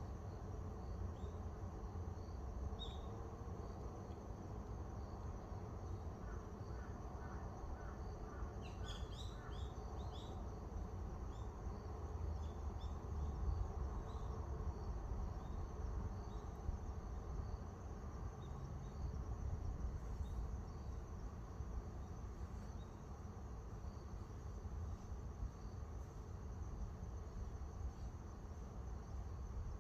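Insects trilling steadily in high-pitched bands, with scattered short bird chirps and a quick run of chirps about nine seconds in, over a low rumble.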